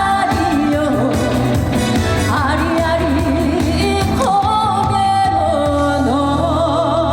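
Korean trot song performed live: a woman sings long held notes with wide vibrato over backing music with a steady bass line.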